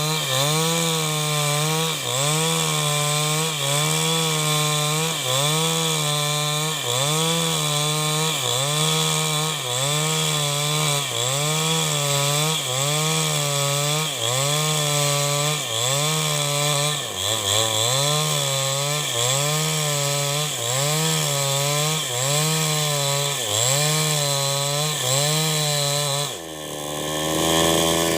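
New West 788 chainsaw ripping a log lengthwise under load, its engine pitch dipping and recovering in a steady rhythm about every second and a quarter. Near the end the rhythm breaks: the level dips briefly and the engine revs back up.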